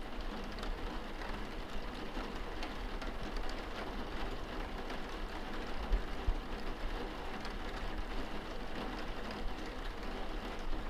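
Rain on a window glass heard from inside the room: a steady hiss with scattered ticks of drops striking the pane, and a couple of brief low thumps about six seconds in.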